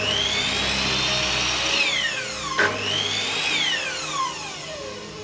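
Hitachi 255 mm miter saw's motor switched on twice: each time a click, then a whine that rises quickly as the blade spins up. After each trigger release the pitch glides steadily down as the electric brake slows the blade, showing the brake still works.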